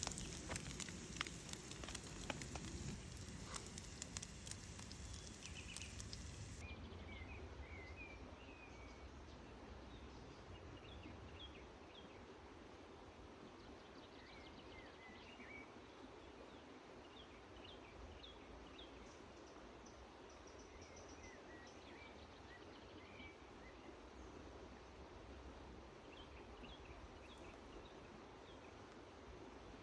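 Campfire cooking crackling and sizzling with sharp pops for the first several seconds, then an abrupt cut about six seconds in to faint forest ambience with scattered short bird chirps.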